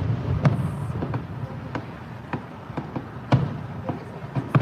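Fireworks going off: a string of sharp bangs at irregular intervals, roughly one or two a second, over a steady low rumble.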